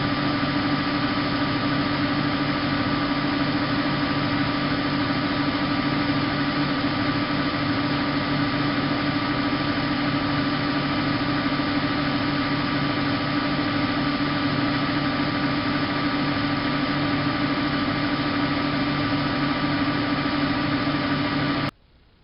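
Bosch WFK 2431 washing machine running steadily, its motor giving a constant whine over a mechanical hum. It cuts off abruptly near the end.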